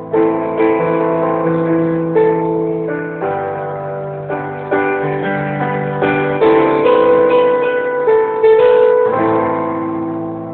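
Keyboard playing a slow riff of sustained piano-like chords over a held bass note, a new chord struck every second or so, the sound thin and dull as if captured on a phone. The last chord rings out and fades near the end.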